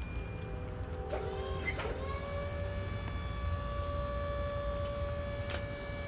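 Steady low engine rumble with a mechanical whine on top that wavers and rises in pitch, then settles into a steady whine about two seconds in.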